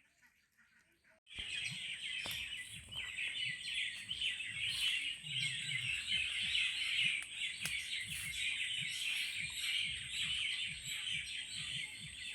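Dense, continuous chirping of many small birds that starts suddenly about a second in, with a faint steady high tone underneath.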